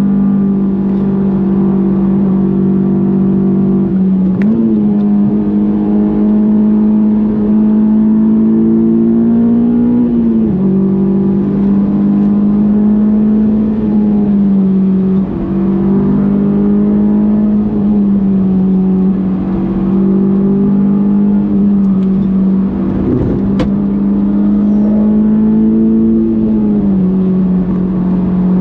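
Honda S2000's 2.2-litre F22 inline-four running hard at high revs through a lap. Its steady note creeps slowly up in pitch and drops back a few times, near 4, 10, 15, 19 and 27 seconds in.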